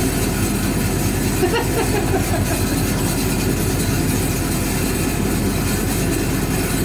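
1965 English Electric Liberator washing machine running: a steady low mechanical rumble with a fast, even rattle and a constant hum underneath.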